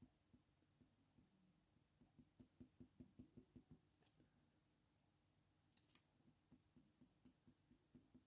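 Near silence: room tone with a short run of faint soft ticks about two and a half seconds in, and a couple of faint clicks later.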